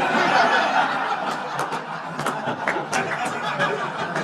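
Large audience laughing in response to a punchline, loudest at the start and slowly dying down.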